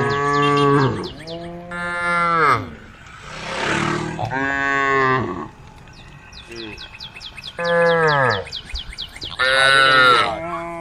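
Cows mooing repeatedly: about six long calls, each about a second, dropping in pitch at the end. A fast, high, even ticking runs behind them.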